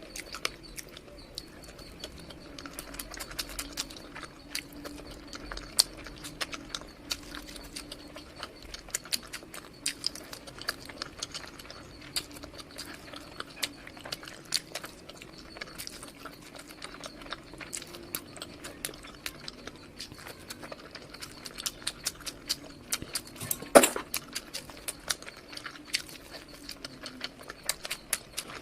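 Close-miked eating sounds: a dense run of wet mouth clicks and smacks as food is chewed, with one louder click about 24 seconds in.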